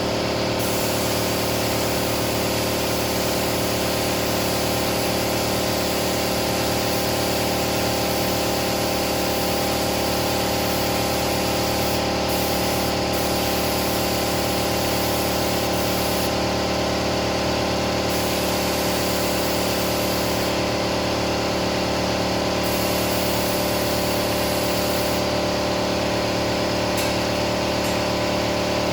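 Compressed-air spray gun spraying primer at low pressure, a steady hiss that lets up briefly a few times, over the constant hum of the air compressor running.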